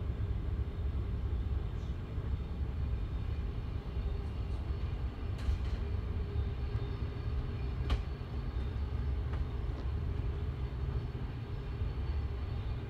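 Passenger train running steadily on rails, heard from on board: a constant low rumble of wheels and carriage. A couple of brief sharp clicks stand out, one about five and a half seconds in and a louder one near eight seconds.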